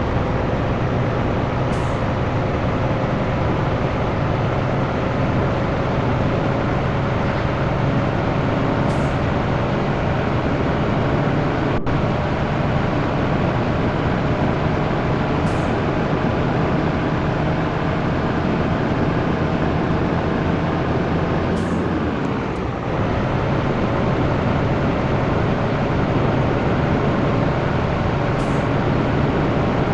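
Heavy diesel truck engine running while driving. Its pitch climbs slowly for most of the stretch, drops briefly about two-thirds of the way through, then carries on at a lower pitch.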